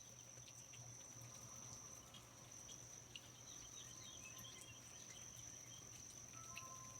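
Faint rainforest ambience: an insect, cricket-like, trills steadily on one high unbroken note. Scattered light drips and ticks fall around it, with a few faint chirps about halfway through.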